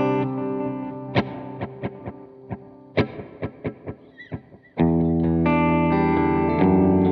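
Electric guitar, a Gibson Les Paul 50s Tribute with P90 pickups, played through an effects pedalboard. A held chord fades, then comes a run of short single picked notes, and about five seconds in a full chord is struck and rings out, strummed again near the end.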